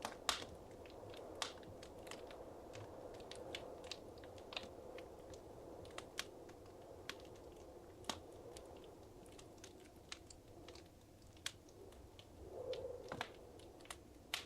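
Wood fire crackling in a fireplace: irregular sharp pops and snaps over a soft, steady rush of flame, with the loudest pop just after the start and the flame sound swelling briefly near the end.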